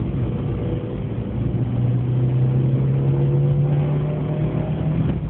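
Car engine pulling under acceleration, its pitch rising slowly and steadily, with a brief dip near the end.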